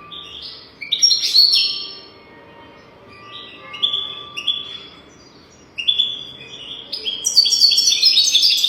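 European goldfinch singing: bouts of quick, twittering chirps, with a longer, denser run of notes near the end.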